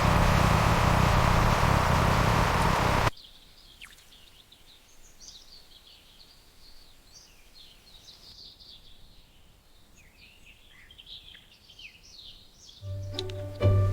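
Loud steady rushing noise with a low rumble that cuts off abruptly about three seconds in, followed by faint scattered bird chirps. Music starts near the end.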